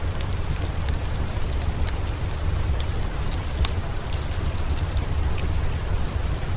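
Steady rain hiss with a deep low rumble under it, and sharp crackles and pops from a wood fire scattered irregularly through it.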